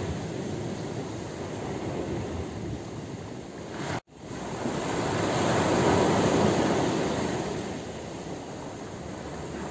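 Ocean surf: a steady wash of waves. It cuts out abruptly for an instant about four seconds in, then a wave swells up, is loudest around six seconds, and washes back down.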